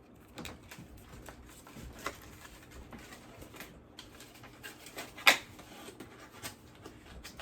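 Light handling noises of a product and its packaging: scattered soft clicks and rustles, with one sharper click about five seconds in.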